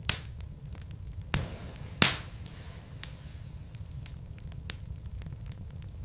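Wood fire burning in a fireplace: a steady low rumble with scattered crackles and three louder pops from the burning logs, the loudest about two seconds in.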